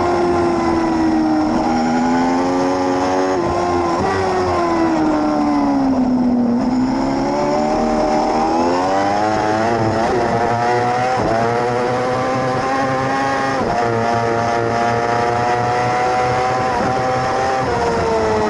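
600 cc racing motorcycle engine under race use. Engine speed falls for the first six seconds or so, with a few sharp breaks, as the bike slows. It then climbs steeply and runs at high revs, with brief dips at the gear changes.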